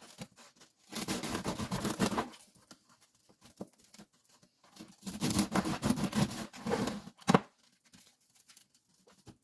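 Kitchen handling noises: two stretches of rustling and scraping with a sharp knock just after the second.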